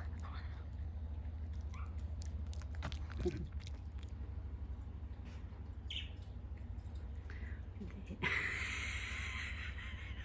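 A small dog giving a few short, high whines, with light handling clicks over a steady low hum. About eight seconds in, a loud rustling of gift packaging starts suddenly.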